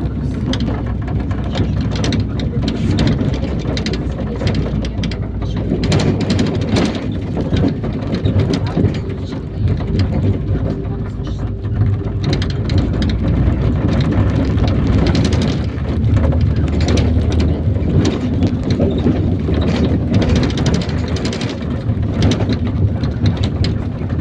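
IVECO Daily 50-140 bus driving, heard from inside: the engine runs and the road noise is steady and low, with frequent small knocks and rattles throughout.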